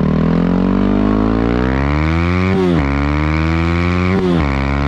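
Yamaha WR250R's single-cylinder four-stroke engine accelerating hard, revs climbing and dropping at two upshifts about two and a half and four seconds in.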